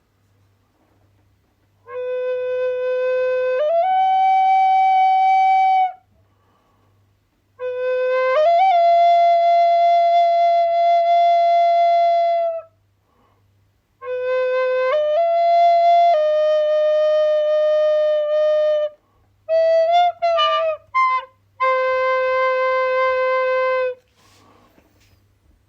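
Solo flute playing slow phrases of long held notes that step up and down between a few pitches, with short pauses between phrases. Near the end it plays a run of quick, broken notes before a final held note.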